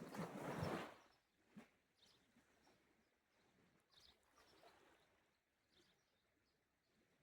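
A small sea wave washes onto the shore and dies away about a second in. Near silence follows, with a few faint bird chirps.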